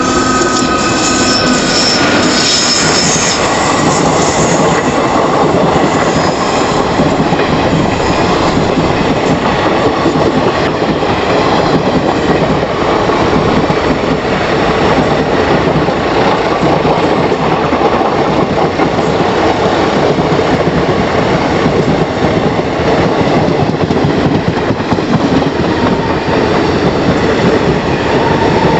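Passenger train running past at close range on a curve: a steady loud rumble and clatter of coach wheels over the rail joints, with a thin wheel squeal coming in near the end.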